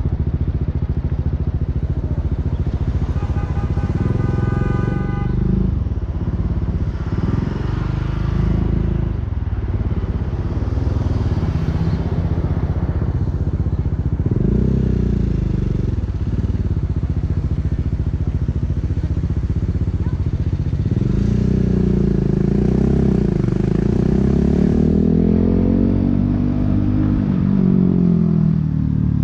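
BMW G 310 R motorcycle's single-cylinder engine through an Akrapovic racing exhaust, heard from the passenger seat, revving up and dropping back again and again as the bike accelerates and changes gear in traffic.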